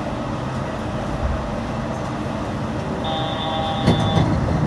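Steady running rumble of a Yurikamome rubber-tyred automated train. About three seconds in, a high steady tone sounds for just over a second, with a sharp click near its end.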